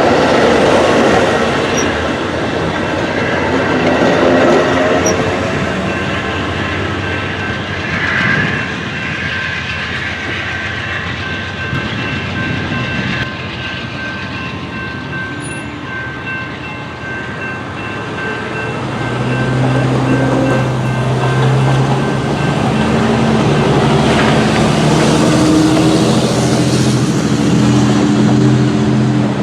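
A train rolling past, a loud steady rumble and clatter of wheels on the rails. Thin high steady tones sound through the middle, and in the last ten seconds a strong low steady tone from a locomotive comes in.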